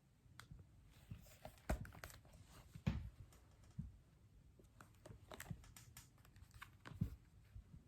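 Faint handling noise: scattered light clicks and taps, with a few louder knocks about two and three seconds in and again near the end, typical of a book being handled and its pages turned.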